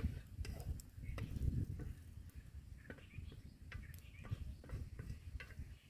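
Spoon stirring and scraping rice pilaf in a pot, with scattered clicks of the utensil against the pot.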